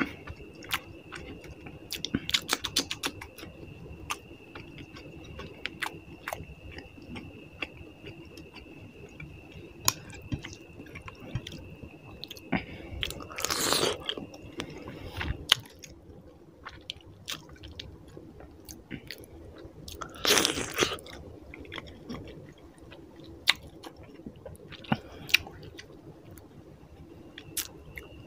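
A person chewing a meal of rice and puti fish curry close to the microphone, with crunching and many small wet mouth clicks. There are two louder noisy swishes, about halfway through and again about two-thirds through. A faint steady high whine runs through the first half and returns near the end.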